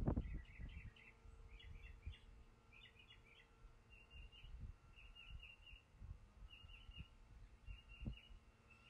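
A small bird chirping over and over in quick clusters of high notes. Low handling bumps come at the start and again about eight seconds in.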